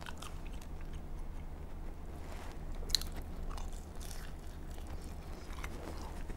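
Close-miked mouth sounds of a person biting into and chewing a mouthful of meatball and fries, with soft wet clicks and one sharper click about three seconds in.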